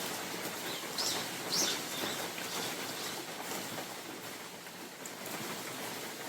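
Steady rain falling in a spring forest with wind through the trees, making an even hiss. About a second in, a bird gives two short high chirps.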